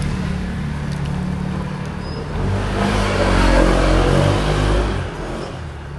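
A motor vehicle engine running, revving up and getting louder about two and a half seconds in, then easing off about five seconds in.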